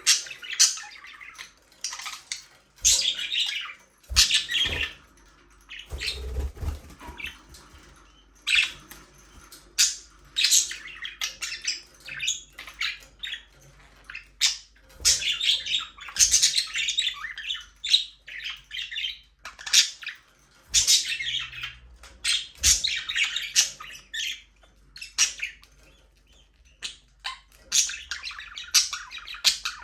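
Budgerigars chirping and chattering, with short squawks among the rapid warbling, in bursts throughout. A few low dull thumps about four and six seconds in.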